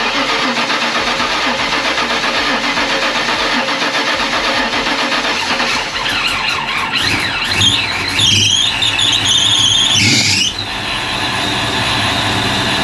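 Supercharged 347 stroker V8 in a Fox-body Mustang, just fired up on a newly fitted fuel pump and running. From about six seconds in the engine is revved, and a high whine rises and wavers in pitch until it drops back near the ten-and-a-half-second mark.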